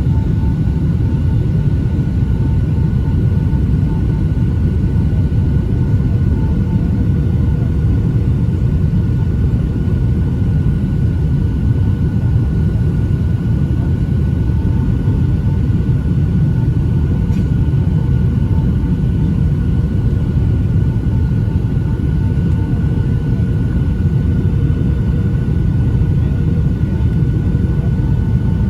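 Cabin noise inside a Boeing 757-200 airliner in flight: a steady, heavy rumble of airflow and engine drone, with a few faint steady tones above it.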